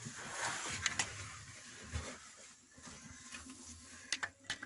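Faint metallic clicks and knocks from a connecting rod in an Opel Omega B's X25XE engine being jerked by hand with the engine stopped, a few sharp clicks about a second in and again near the end, over rustling. The play is taken for a worn connecting-rod bearing shell.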